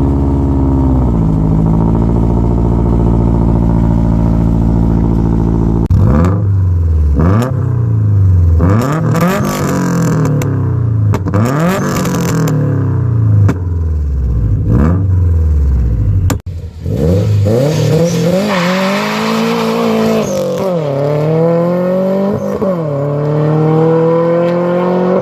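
Stage 2+ 2007 Subaru Impreza WRX STI turbocharged flat-four with a turboback exhaust: a steady fast idle from a very cold start, then a series of sharp throttle blips, then hard acceleration in which the pitch climbs, drops sharply at each gear change about two seconds apart and climbs again.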